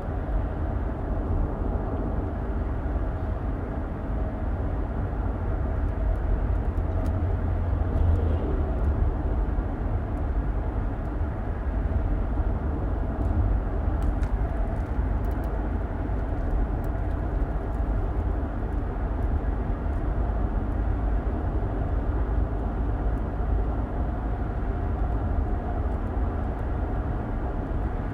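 Car driving at a steady pace, heard from inside the cabin: a continuous low rumble of road and engine noise with a faint hum above it.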